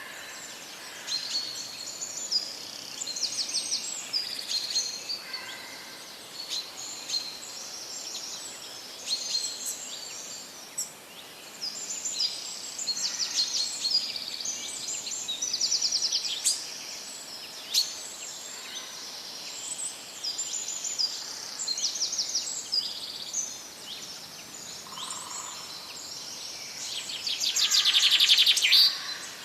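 Several wild songbirds singing together, with many overlapping chirps and quick trills and a louder fast trill near the end.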